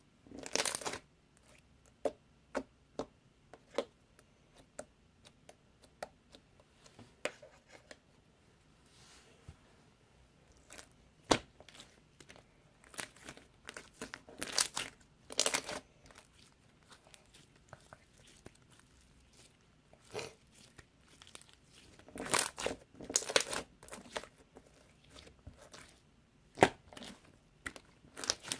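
Slime being squished and pressed by hand, giving scattered sharp pops and clicks, with runs of crackling about halfway through and again near the end.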